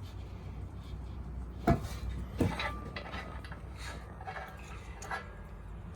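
Metal fittings and hand tools clinking and knocking against each other during air-tank plumbing work, a few sharp clinks, the loudest about a second and a half in, with another near the end, over a low steady hum.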